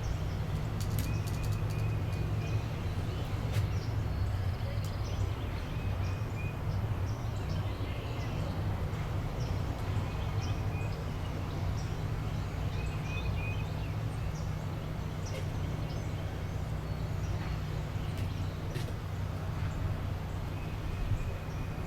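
A small bird calling in short runs of three or four quick, high chirps, repeated every few seconds over a steady low rumble of outdoor background noise.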